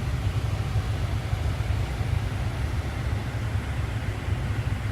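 Steady low rumble with an even hiss inside a car's cabin, with no change through the stretch.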